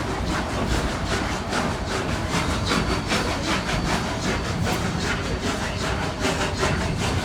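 Narrow-gauge steam train in motion, heard from aboard: a steady rumble of the cars on the rails with rhythmic, hissy beats about three a second from locomotive 491, a K-37 Mikado, described as working hard.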